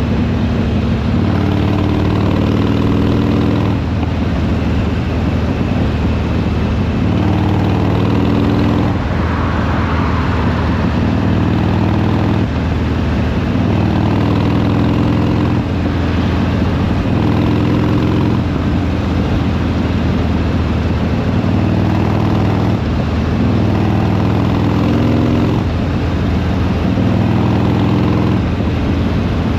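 Harley-Davidson Sportster Iron 883's air-cooled V-twin engine and exhaust while riding. The engine note climbs and then drops back again every two to three seconds.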